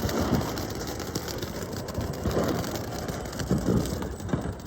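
A lit consumer firework hissing steadily, with a dense rapid crackle running through it.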